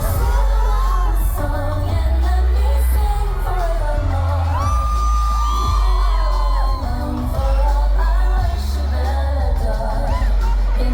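Live pop song: a woman singing with held, gliding notes over a loud backing track with heavy bass.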